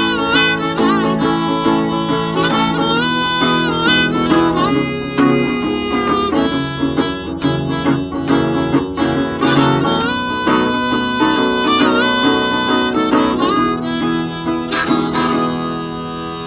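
Harmonica solo with notes that bend and slide, over acoustic guitar, as the instrumental close of a folk song; it eases down near the end.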